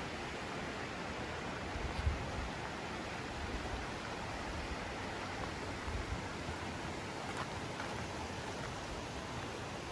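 Steady rushing of mountain water, a creek or falls, with a few low bumps about two seconds in and again near six seconds.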